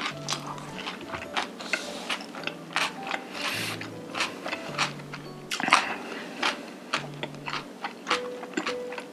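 Close-miked chewing of a mouthful of black bean noodles (jjajangmyeon), a fast run of short clicks and smacks, over soft background music.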